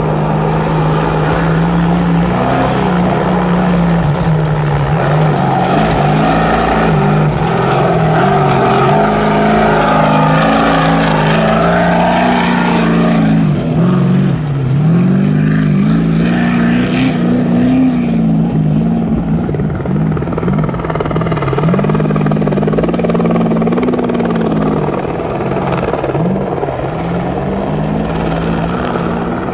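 A Trophy Truck's race engine revving up and down continuously, its pitch dropping and climbing again several times as the throttle comes off and back on over rough ground. It gets loudest in the first half, as the truck passes closest.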